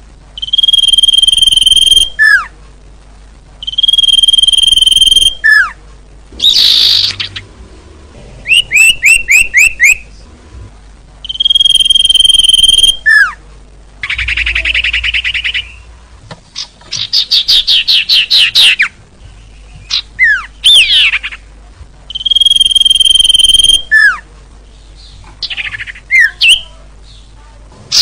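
Bird lure calls of small songbirds, repeating in loud phrases. Held whistles alternate with quick downward-sliding notes, fast runs of short rising notes and a buzzy burst, with brief pauses between phrases.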